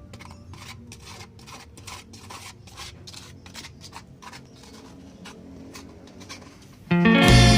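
Rapid, irregular scraping strokes of a hand tool working against a gritty surface, several a second. Loud background music cuts in near the end.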